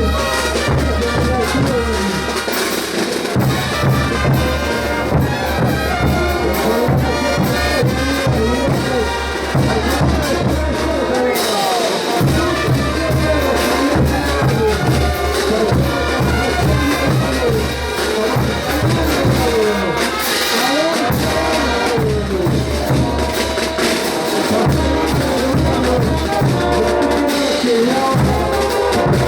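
Brass band of trumpets and trombones playing a ch'uta dance tune, with drums keeping a steady beat underneath.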